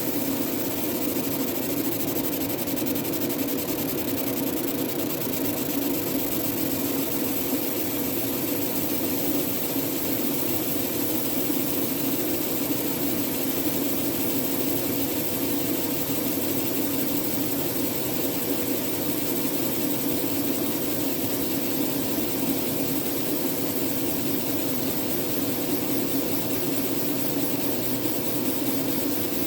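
Fiber laser engraving machine running: a steady, unbroken hum with a few held tones over a noisy hiss.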